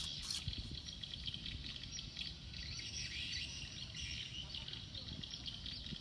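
Birds chirping in a dense, steady chorus over a low rumble.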